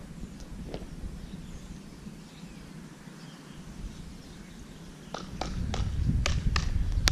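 Quiet outdoor ambience, then from about five seconds in a run of footsteps or light impacts about three a second, with wind buffeting the microphone growing louder.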